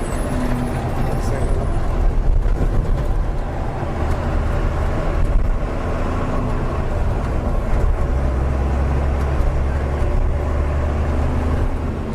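Lorry engine and road noise while driving, heard from inside the cab: a steady low rumble with an engine hum.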